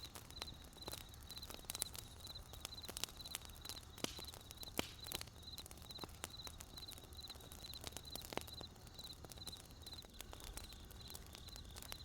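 Firewood crackling in a campfire, with irregular sharp pops and a couple of louder snaps about five and eight seconds in. Crickets chirp steadily underneath at about two chirps a second.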